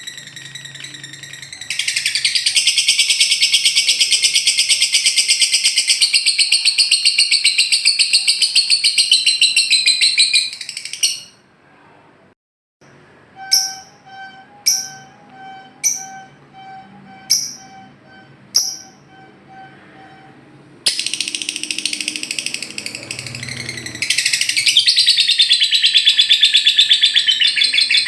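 Lovebird ngekek: long, rapid, unbroken high-pitched chattering trills. Midway the trill stops and a run of separate sharp chirps follows, about one a second, before the rapid chatter starts again.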